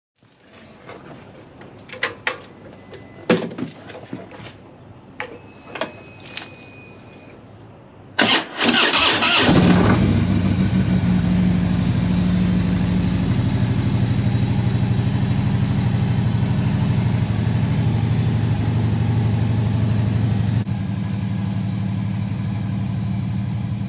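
Harley-Davidson V-twin touring motorcycle engine cranking and catching, then idling steadily. Before it starts there are a few clicks and knocks and a couple of short electronic beeps.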